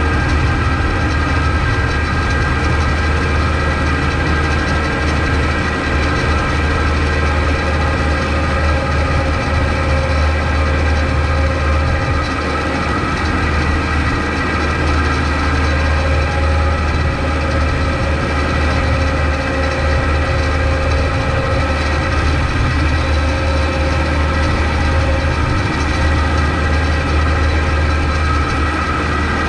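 Kubota MX5200 tractor's four-cylinder diesel engine running steadily while plowing snow, a deep rumble with several steady high tones over it.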